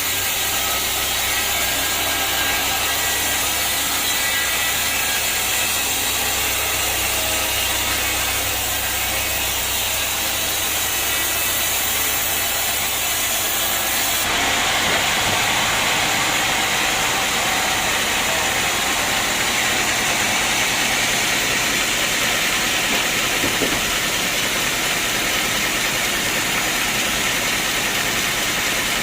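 Sawmill machinery running steadily, with a low motor hum under the noise. About halfway through, the sound changes suddenly to a brighter, noisier running without the hum.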